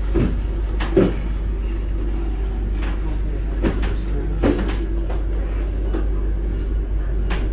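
Passenger train carriage in motion: a steady low rumble with irregular knocks and rattles every second or two.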